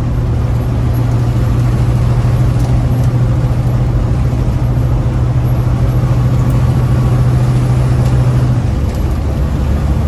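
Big rig diesel engine running steadily while driving, heard from inside the cab. Near the end its low hum drops to a lower pitch.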